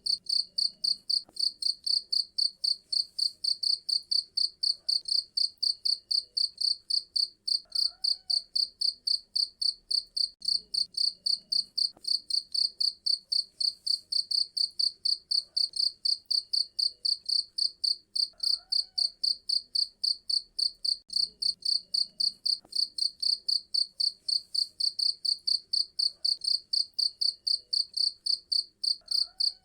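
Cricket chirping steadily in a fast, even rhythm of about three shrill chirps a second.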